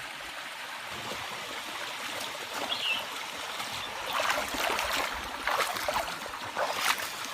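Waterfall stream water running steadily, with irregular splashes that grow busier in the second half.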